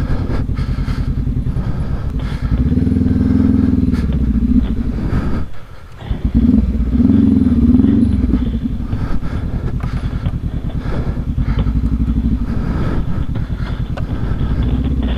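Adventure motorcycle engine running close up on a rough trail. It is revved up harder twice, about three seconds in and again around seven seconds in, with a brief drop in between.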